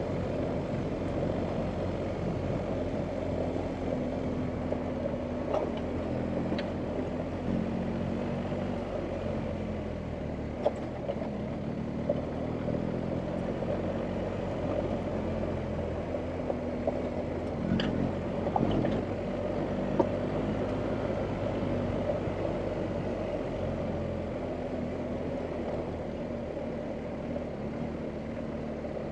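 BMW R1250GS Adventure's boxer twin engine running at low revs while riding off-road, its note stepping up and down a little with the throttle, with a few sharp clicks and knocks scattered through.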